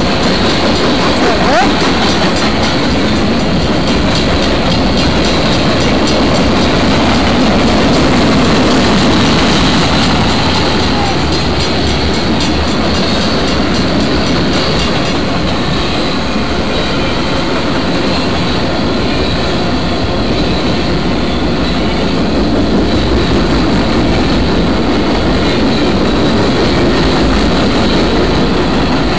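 Freight train of covered hopper and tank cars rolling past: a loud, steady rumble and clatter of steel wheels on the rails.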